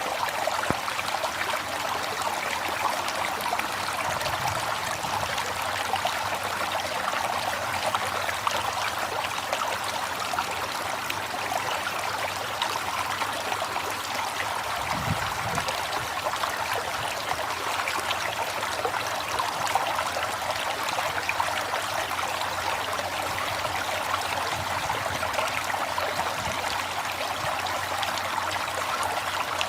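River water flowing and burbling, a steady rushing and trickling without a break. A brief low thump sounds about halfway through.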